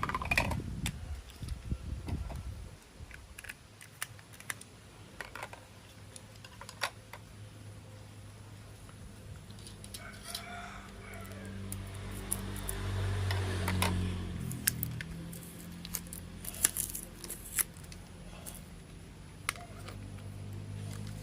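Clicks and light rattles of plastic toy train parts being handled, with a low steady hum coming in about halfway through.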